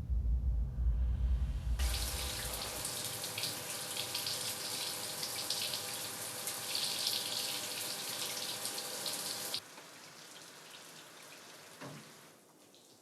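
Water running from a tap, turned on about two seconds in and shut off abruptly near ten seconds. A deep rumble fades out in the first few seconds.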